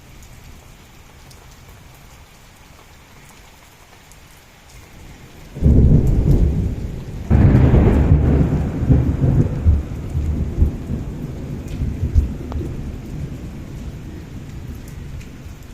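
Steady rain falling with scattered drop ticks, then a thunderclap about five and a half seconds in: a sudden deep rumble, a sharper crack a second and a half later, and rumbling that slowly fades away.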